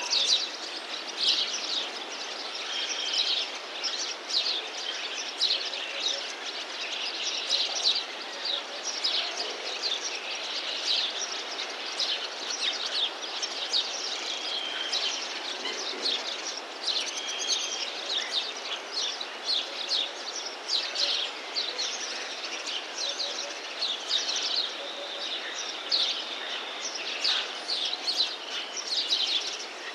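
A dense chorus of small birds chirping and trilling without a break, over a steady background hiss.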